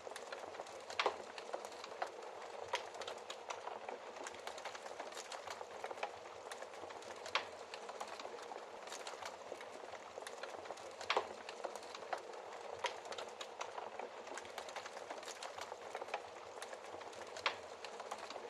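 Wood fire crackling in a fireplace: a steady hiss with scattered sharp pops, the loudest about a second in, near seven seconds, eleven seconds and seventeen seconds.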